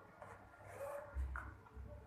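A small Lhasa Apso dog playing with a bottle: soft scuffing and rustling as the bottle is pushed and mouthed, with a dull bump a little past halfway.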